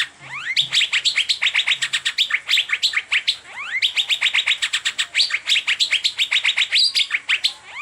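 Asian fairy-bluebird (cucak biru) singing in a fast unbroken run of sharp repeated chirps, about eight to ten a second, with a few upward-sweeping whistles mixed in; the run breaks off briefly twice.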